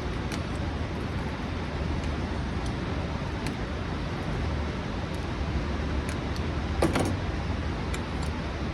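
Steady low rumbling background noise with a few faint light clicks, the strongest about seven seconds in.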